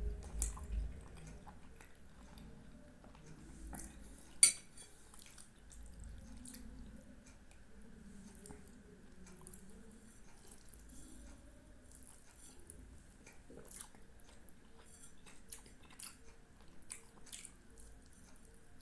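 Quiet chewing and mouth sounds of someone eating soft sweets, with scattered small clicks and one sharp clink about four and a half seconds in.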